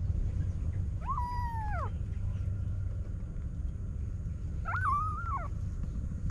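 A tiny kitten meowing twice, two drawn-out high calls a few seconds apart, each rising, holding and dropping away, over a steady low background hum.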